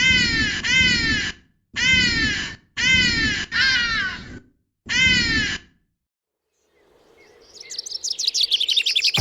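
Birds calling: six loud, harsh, caw-like calls, mostly in pairs, each falling in pitch. After a short pause, fast high twittering chirps build up over the last two seconds.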